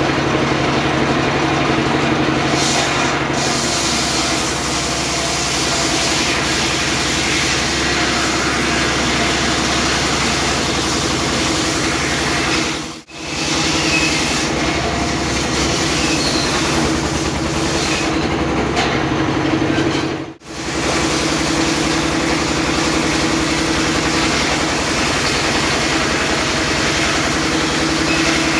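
Homemade circular sawmill running steadily, its engine and saw making a loud, continuous mechanical sound, with two brief drops in level about 12 and 19 seconds in.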